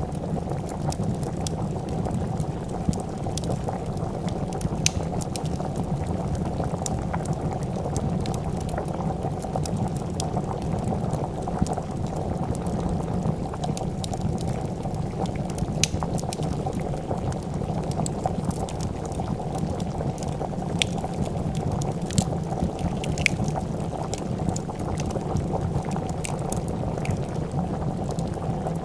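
A pot of soup bubbling at a steady boil, with a thick continuous burble, and scattered sharp pops and crackles throughout, typical of a wood fire.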